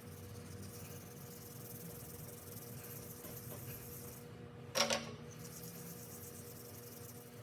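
Aerosol spray can hissing as the centre caps are sprayed, stopping briefly partway through before a single sharp knock, then hissing again.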